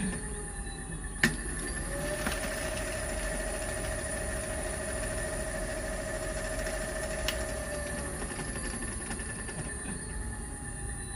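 Electric dirt bike's 72V rear hub motor running, with a steady mid-pitched whine that sets in about two seconds in and fades out after about six seconds, over a rough rumble of tyre and mud noise. A steady high whine sits under everything, and there are two sharp knocks.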